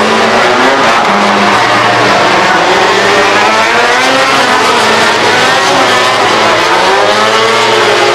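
Several MotoGP race motorcycle engines running at high revs together, their overlapping pitches rising and falling as the bikes accelerate and shift.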